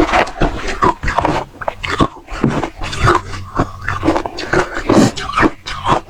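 Close-miked biting and crunching of frozen matcha ice with a dry, frosty texture: rapid, irregular crisp crunches, several a second.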